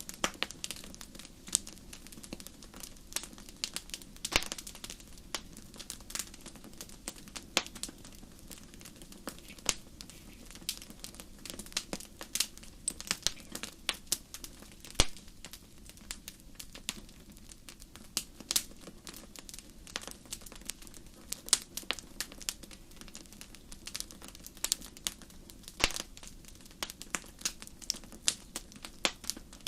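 Crackling campfire: burning wood gives off irregular sharp pops and snaps, several a second, over a steady low background noise.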